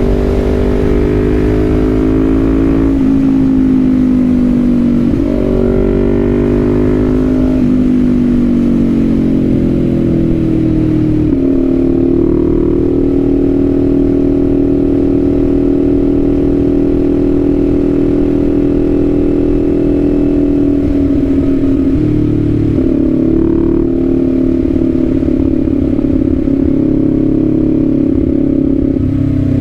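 Kawasaki Z400's parallel-twin engine on the move: its pitch climbs and drops back twice in the first few seconds as it shifts up, rises once more, then holds steady at a cruise for the rest.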